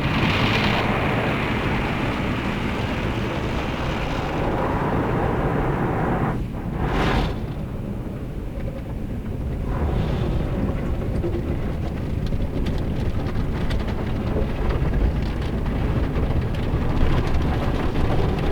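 Automatic car wash water jets spraying and drumming on the car, heard from inside the cabin: a steady rushing noise over a low rumble, with a brief louder rush about seven seconds in.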